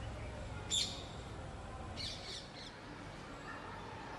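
A bird calling twice outdoors: a short, sharp high-pitched chirp about a second in, then a quick run of high chirping notes about two seconds in.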